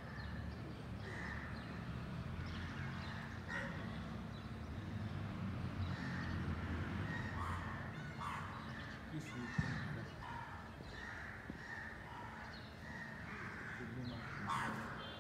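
Outdoor birds calling repeatedly in short calls over a low steady rumble, with one sharp knock a little under ten seconds in.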